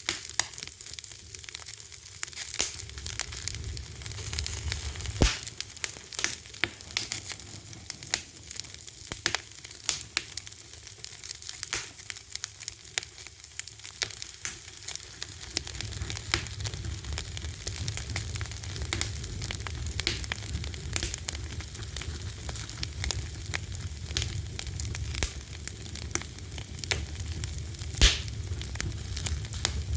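Fire crackling: a dense, steady run of small crackles with occasional sharper pops, the loudest near the end, over a low rumble that grows louder about halfway through.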